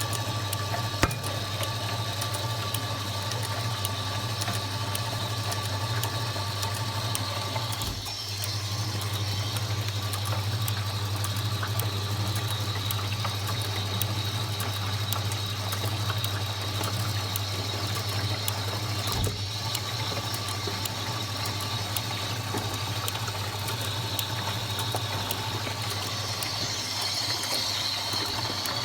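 Washing machine running with a steady low hum and water sounds, with a brief dip about eight seconds in and a single click a little past halfway.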